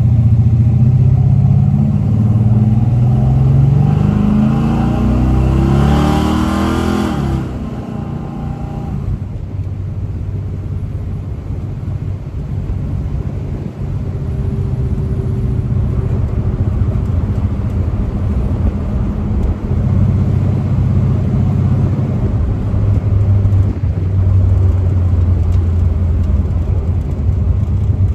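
V8 engine of a Chevy LUV pickup accelerating, its pitch climbing for about seven seconds before falling away. It then runs at a steadier, lower note, growing louder again about twenty seconds in.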